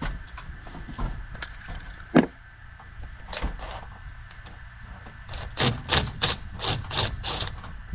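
Scattered knocks and clatter of hand work on metal fittings and a ladder, with one sharp knock about two seconds in and a quick run of strokes in the second half, over a steady low hum.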